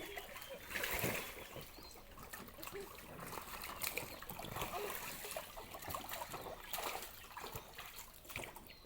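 Water splashing and trickling in a small indoor pool as kittens play in it, with a louder splash about a second in.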